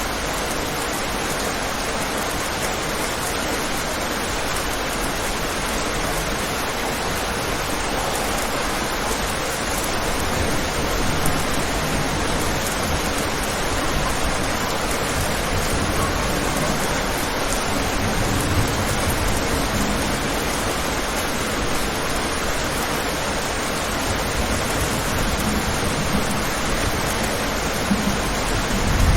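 Steady rain falling, a constant even hiss. A low rumble swells in underneath during the second half.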